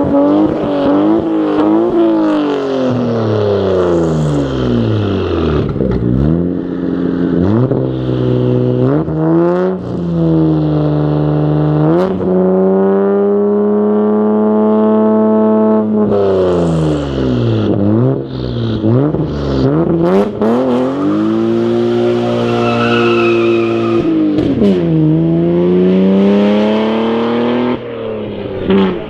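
Toyota JZX90 Mark II's 1JZ-GTE twin-turbo straight-six running through an aftermarket exhaust while being driven. The revs repeatedly fall and climb again, with one steadier stretch of cruising around the middle.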